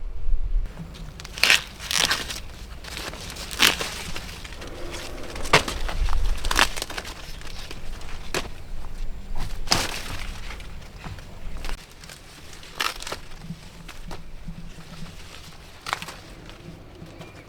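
Ears of corn being snapped off the stalks by hand: irregular sharp snaps, a dozen or so, amid the rustle of the leaves.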